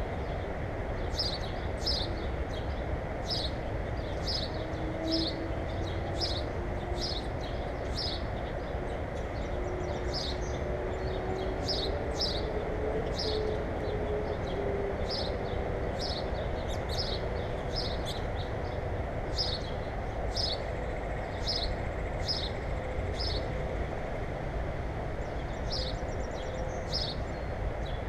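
A small bird repeats one short, high chirp at a steady pace, about every two-thirds of a second, with no break. Under it runs a constant low rumble, and a faint hum wavers in pitch through the middle.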